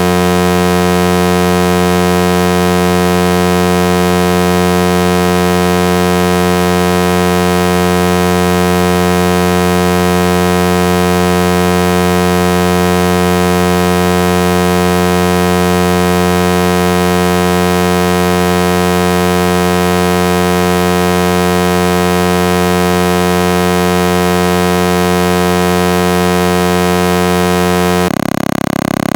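A loud, steady pitched drone with many overtones, held without change, that switches abruptly to a different drone near the end.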